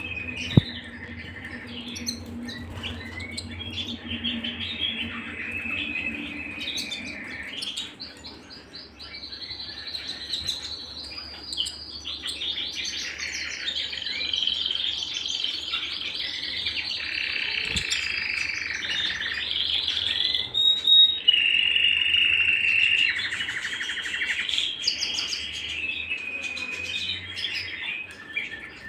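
Canary singing a long continuous song of rapid trills and rolling tours, some held for several seconds, shifting in pitch from phrase to phrase. A single sharp click about half a second in.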